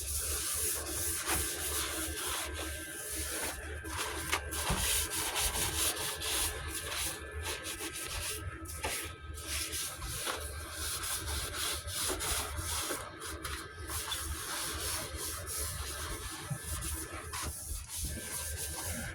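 Repeated hand-rubbing strokes over the truck's body panel, going on steadily.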